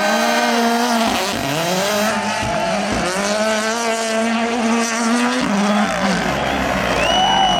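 Rally car engine revving hard, its pitch climbing and then dropping several times as it goes up through the revs and shifts or lifts off.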